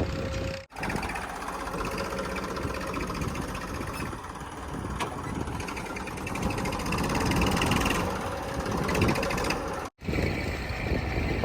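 Diesel engines of earth-moving machinery running steadily, with the sound cutting out briefly twice where the footage is cut.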